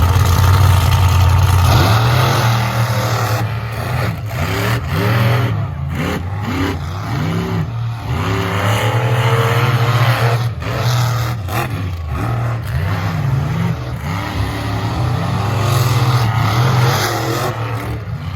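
Monster truck engine revving hard over and over, its pitch climbing and dropping with each throttle stab, with a deep steady drone underneath.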